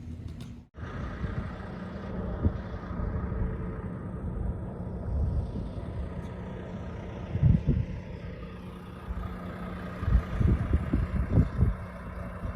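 Truck engine running steadily, with a few dull low thumps about halfway through and again near the end.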